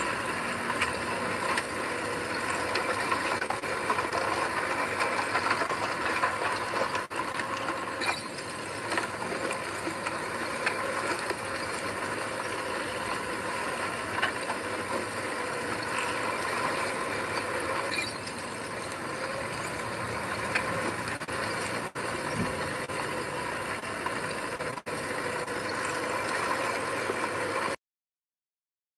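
Bulldozer working: a diesel engine running under a steady mechanical clatter from the machine, in several joined stretches with brief breaks. The sound cuts off abruptly near the end.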